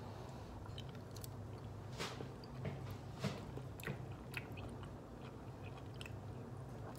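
A man chewing a first bite of beef steak from a frozen dinner, with soft, irregular mouth clicks and smacks. The bite is gristly. A low steady hum runs underneath.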